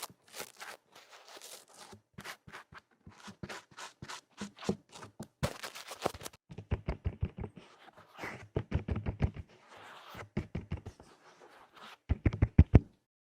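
ASMR ear-cleaning sound: fast, rough scratching and rubbing strokes on the ears of an ASMR microphone. Near the end comes a quick run of louder, deeper thumps, and then the sound stops.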